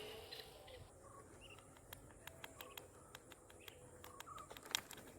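Near silence outdoors, with faint bird chirps and a scattering of small, irregular clicks that come more often near the end.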